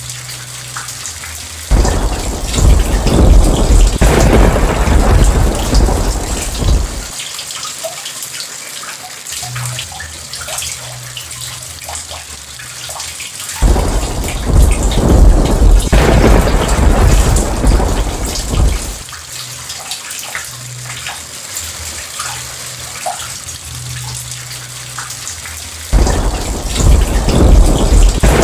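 Steady heavy rain with three rolls of thunder, each starting suddenly and rumbling for about five seconds, roughly twelve seconds apart.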